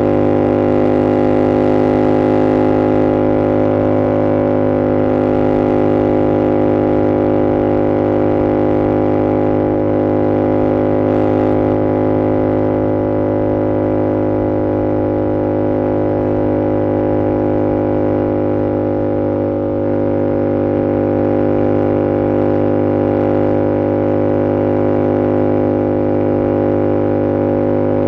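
2022 Yamaha R7's 689 cc parallel-twin engine through an SC-Project CR-T exhaust, held at a steady engine speed while cruising: one even, unchanging drone, dipping slightly about twenty seconds in.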